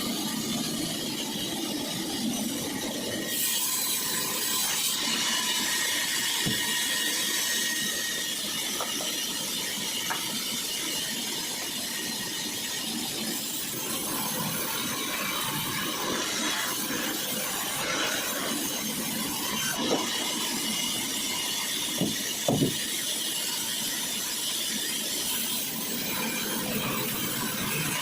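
Sawmill saw running steadily through dry kikar (acacia) wood, a continuous hissing cut. A few sharp knocks come about two-thirds of the way in.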